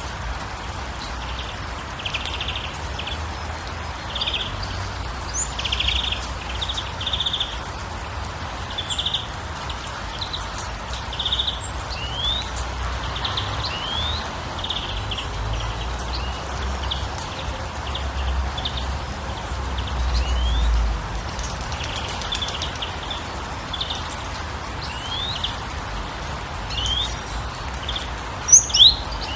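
Small birds chirping: repeated short chirps and quick upward-sweeping call notes, with two louder calls near the end, over a steady rushing background noise and a low rumble.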